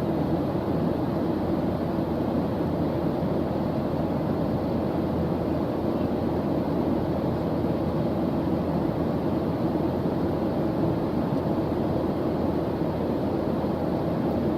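Steady white-noise background track: an even, deep hiss that never changes, weighted toward the low end with little treble.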